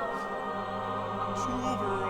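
Opera music: voices holding long notes with vibrato over sustained accompaniment, with a low held note entering about half a second in.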